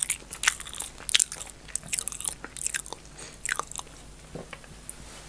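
Close-miked chewing and biting of food, a string of short, crisp crunches that die away about four seconds in.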